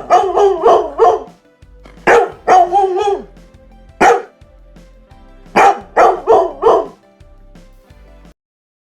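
Dog barking in quick runs of several sharp barks with short gaps between, with one lone bark in the middle; the barking stops about seven seconds in.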